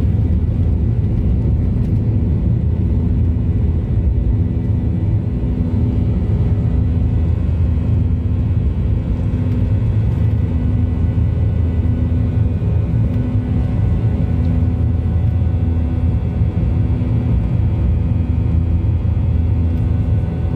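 Boeing 737-900ER's CFM56-7B turbofan engines roaring steadily at takeoff power: a deep, even rumble with a few steady tones running through it.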